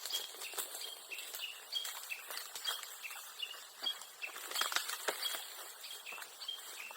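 A small bird chirping over and over in short high notes, several a second, with scattered light clicks and rustles mixed in.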